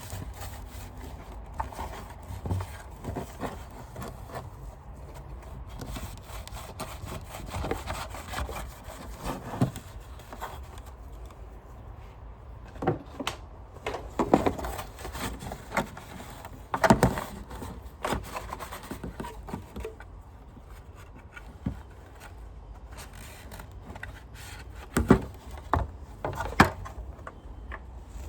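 Hand handling of Sanitaire upright vacuum parts: rubbing and scraping, with scattered sharp knocks, a cluster of the loudest near the middle and a few more near the end.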